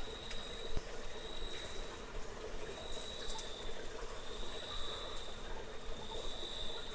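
An insect trilling steadily on one high note, swelling and fading every second or two, over a steady background hiss. A single faint click comes less than a second in.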